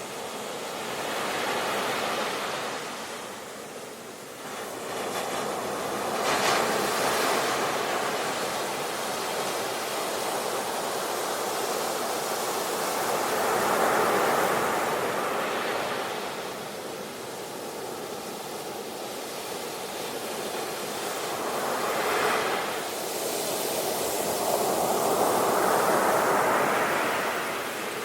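Sea waves breaking and washing on a shore, rising and falling in about five slow surges.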